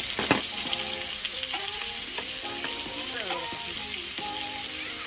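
Food sizzling in a hot pan, a steady crackling hiss, with a melody playing faintly underneath. There is a sharp click just after the start.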